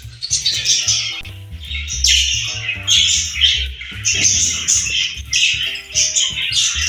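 Budgerigar chattering and chirping in rapid bursts, over background music with a steady bass line.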